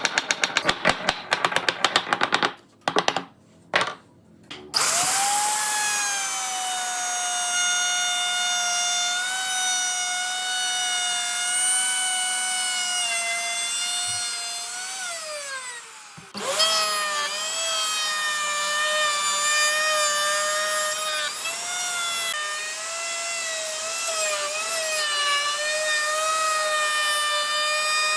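Electric power tool working wood. First comes a rapid clatter and a few short bursts. Then the motor spins up to a steady high whine, runs about ten seconds and spins down. It starts again with its pitch wavering slightly under load.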